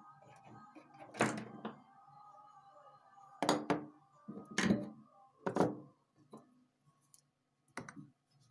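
About five sharp knocks or taps spaced over several seconds, with a faint steady hum and tones underneath.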